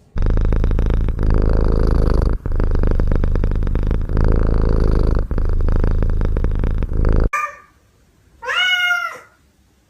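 Domestic cat purring loud and close, in long stretches broken by two short pauses for breath. The purring stops about seven seconds in, and a short chirp and a single meow follow near the end.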